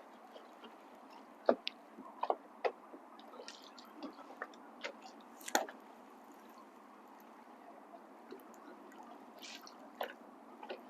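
Scattered light clicks and knocks, irregular and a few seconds apart, over a faint steady hiss.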